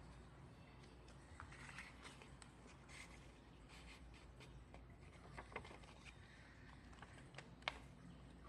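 Faint rustling and light clicks of a sheet of paper being handled and creased while folding a paper airplane, with one sharper tap near the end.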